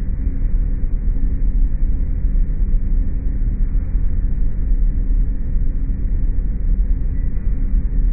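Steady, loud low mechanical drone with a deep throbbing hum, from a repair machine that sounds like a compressor, played back slowed down.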